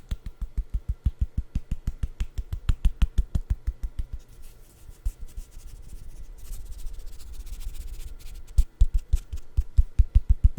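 Fast, even tapping on a food item close to the microphone, each tap with a deep thud, broken in the middle by a few seconds of rubbing and scratching before the quick taps start again.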